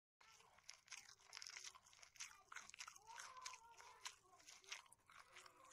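A person biting and chewing a strip of fried pork belly close to the microphone: quiet crunching with many sharp clicks, cutting in a moment after the start.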